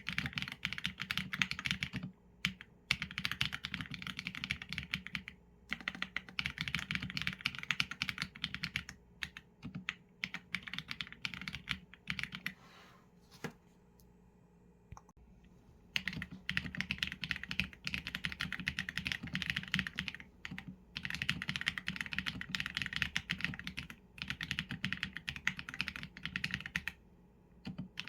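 Typing on a Qsenn A75 mechanical keyboard with Leobog Graywood v4 linear switches and PBT keycaps: rapid keystrokes in runs, broken by short gaps and a pause of about two seconds just past the middle.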